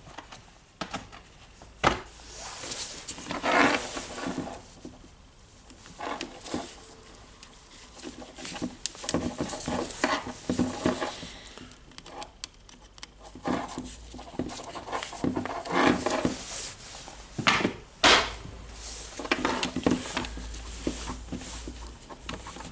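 Small hard plastic and metal parts clicking, tapping and rustling as they are handled and fitted into a cordless rotary hammer's housing, with irregular clicks scattered throughout and a few sharper knocks.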